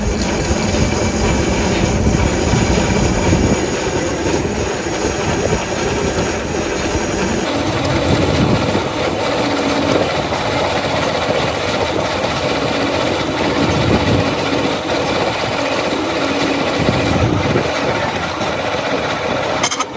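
Loud, continuous machinery noise on a factory floor. The noise changes abruptly about seven and a half seconds in, as if cutting to another machine or area.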